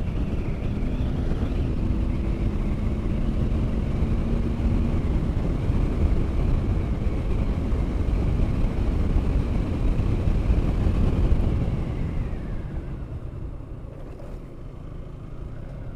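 Motorcycle riding at road speed, engine running under a dense low rumble of wind and road noise. The engine note climbs slightly in the first few seconds, and the sound eases off about twelve seconds in before picking up again.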